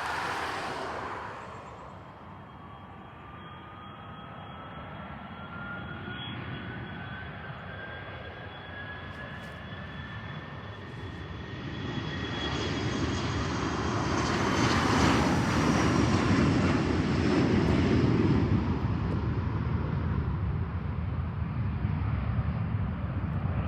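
Embraer ERJ 145 regional jet departing, its two Rolls-Royce AE3007 turbofans whining over a broad jet rumble. The whine glides slowly upward, and the rumble grows louder toward the middle and stays strong to the end.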